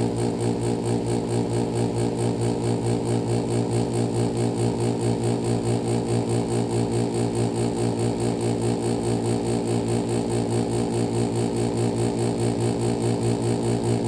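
2012 Pelonis Elite heat pump running with a steady mechanical hum and a fast, even pulsing, still stuck in its defrost cycle.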